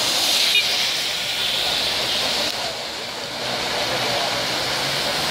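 Heavy rain falling on a busy wet road: a steady hiss of rain and tyres swishing through the water as cars drive past, with a van's engine humming as it passes close near the end.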